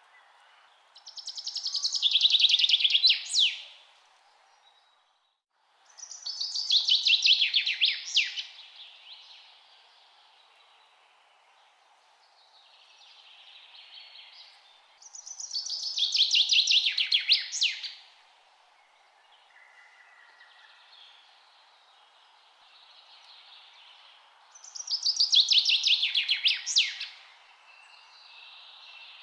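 A songbird singing the same song four times, each a fast run of notes about two and a half seconds long that falls in pitch and ends in a quick downward sweep. Softer calls sound between the songs, over a steady faint hiss.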